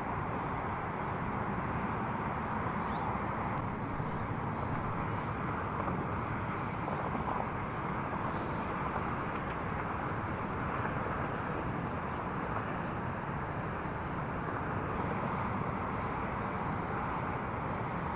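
Steady city traffic noise, an even, unbroken hum of vehicles that does not rise or fall.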